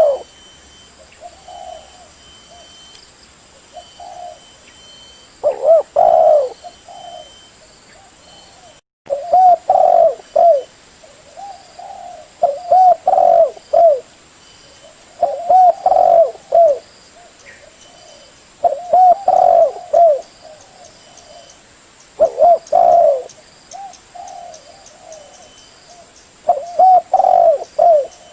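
Spotted dove cooing: a phrase of several short low coos about every three seconds. This is a lure call for catching tekukur. The sound drops out briefly about nine seconds in.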